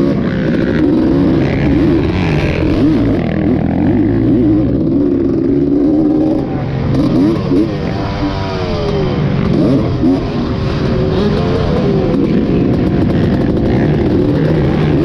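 Dirt bike engine revving, its pitch rising and falling again and again over a continuous low rumble.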